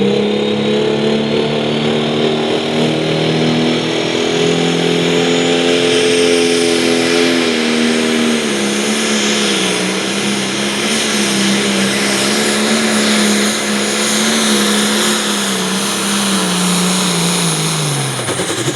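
Turbocharged diesel engine of a pulling tractor running at a steady fast idle, with a high turbo whine that rises over the first few seconds. Near the end the engine revs and the whine drop away together.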